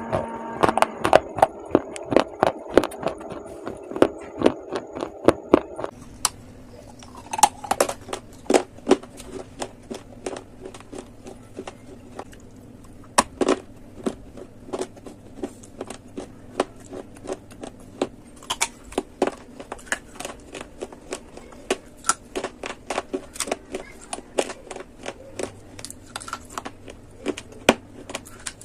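Close-up crunching and cracking as hard baked clay and slate pencil pieces are bitten and chewed, with many sharp crunches coming irregularly, several a second. A steady humming tone with a few pitches sits underneath for the first six seconds or so, then cuts off.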